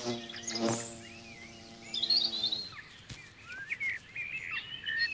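Songbirds chirping and calling in short rising and falling notes. For the first couple of seconds a steady low hum with many overtones runs beneath them.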